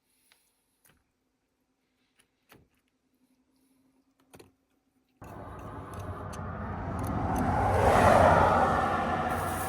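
A few faint clicks, then, starting abruptly about five seconds in, a road vehicle passing on the highway: its noise swells to a peak about three seconds later and then fades.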